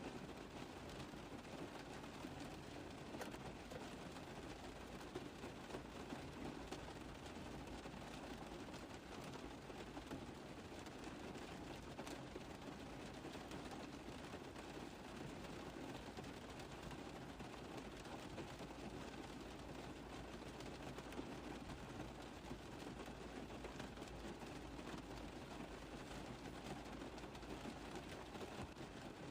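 Rain tapping steadily on a car roof: a dense patter of many small drop impacts over an even hiss.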